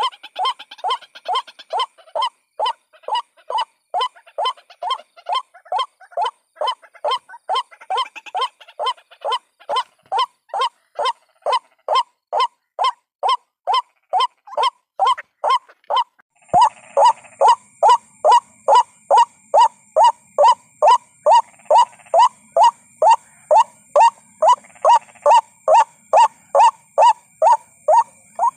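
White-breasted waterhen lure call: the same short call repeated over and over, a little over twice a second. About halfway through there is a click, and the calls carry on louder with a steady high ringing tone behind them.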